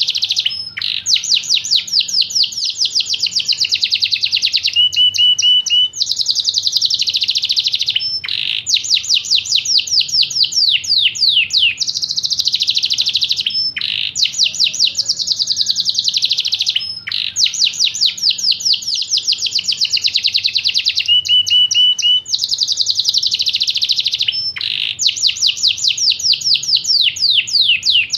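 Yorkshire canary singing: long phrases of very rapid, high trills made of quick falling notes, broken by short pauses every few seconds.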